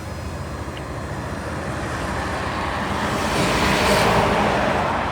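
A vehicle passing on the road: its tyre and engine noise swells to a peak about four seconds in, then fades. Under it runs the low, steady idle of the stopped Renault T-range truck's diesel engine.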